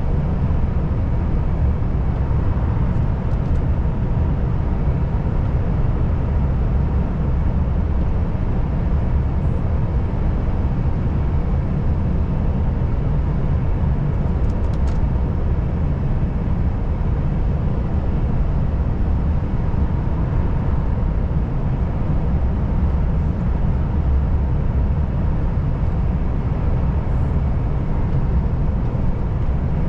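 Volvo FH540 truck's 13-litre diesel engine and tyres on the road, a steady low drone while driving at an even pace.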